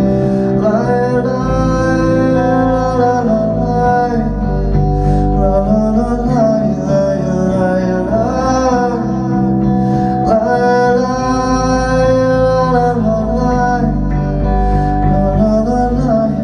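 Live acoustic band playing an instrumental passage between verses of a ballad: guitar chords under a held, wavering lead melody.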